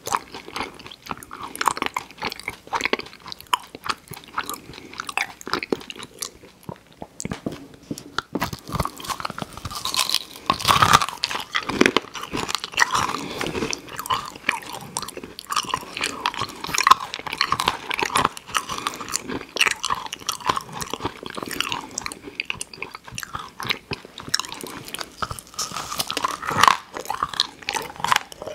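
Close-miked chewing and crunching of candy: an irregular run of crisp crunches and wet chewing clicks, heavier from about ten seconds in.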